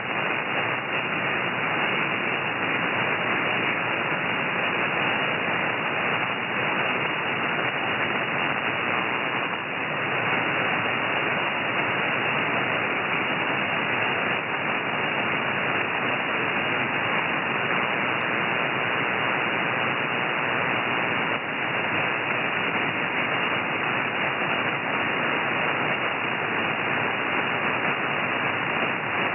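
Receiver audio from an ANAN software-defined ham radio transceiver: steady band noise and static, a hiss cut off sharply just under 3 kHz by the sideband receive filter.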